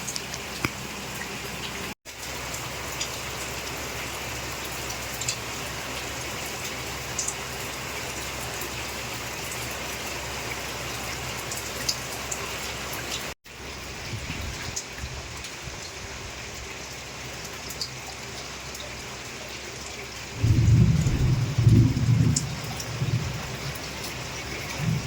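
Heavy rain pouring down steadily, with scattered drops pattering. About twenty seconds in, a loud low rumble lasts a couple of seconds.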